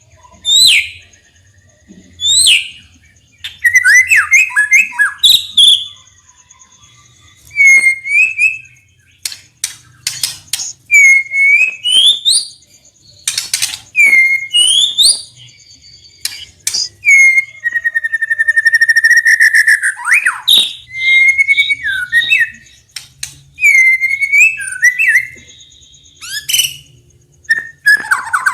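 White-rumped shama singing: loud whistled phrases of quick sweeping notes, with runs of sharp rattling clicks (ketrekan) a few times and a longer drawn-out phrase near the middle.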